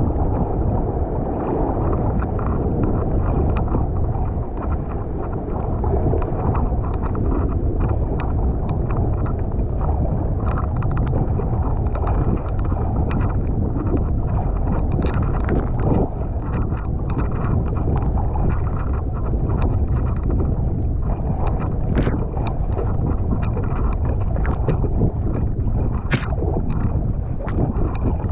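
Wind rumbling on a GoPro microphone over a kayak in the surf, with water rushing and many small splashes and drips.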